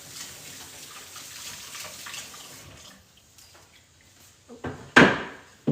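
Kitchen tap running into a sink for about three seconds, then shutting off. A few sudden loud knocks follow near the end, the loudest about five seconds in.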